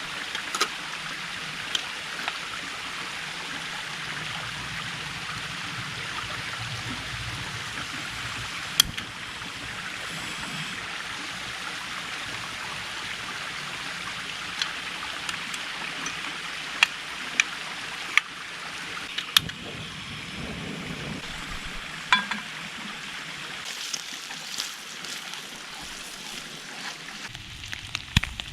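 Creek water running steadily, with a number of sharp, separate clicks and ticks scattered over it.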